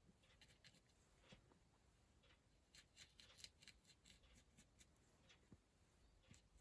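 Near silence, with faint, scattered light taps and scratches of a small paintbrush dabbing talcum powder onto a card's sticky glue strip.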